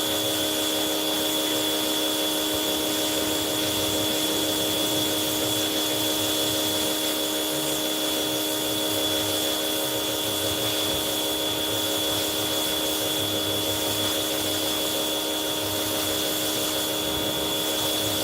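Steady machine whine with a constant hiss, unchanging throughout: an electric motor running at constant speed, such as a wash-bay pump.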